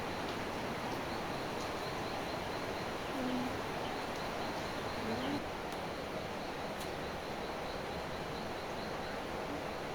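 Steady hiss of rain, with two faint short calls about three and five seconds in and a faint high chirping that repeats several times a second.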